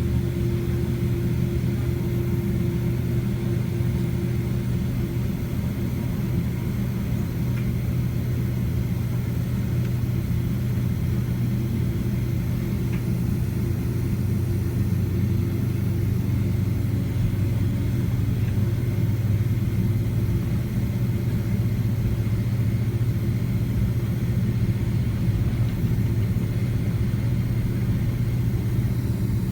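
Cabin drone of a Boeing 767-300ER's twin jet engines at taxi power, heard from a passenger seat: a steady low hum with air noise, and a slightly higher hum that drops away about five seconds in.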